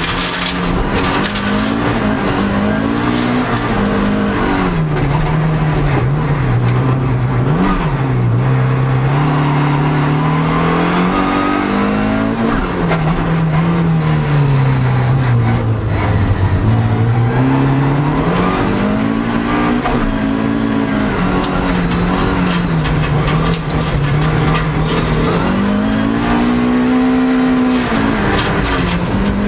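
Toyota MR2 (AW11) rallycross car's engine heard from inside the cockpit under hard driving. The revs climb and fall again and again, with deep drops around a third and halfway in, as the car accelerates, shifts and slows for corners.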